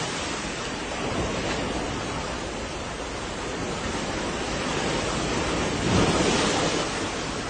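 Rushing, surging water: a steady, dense wash of noise that swells louder about six seconds in.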